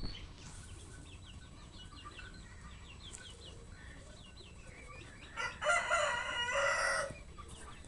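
A rooster crowing once, about five and a half seconds in, a call lasting about a second and a half. Faint, short, high chirps repeat before it.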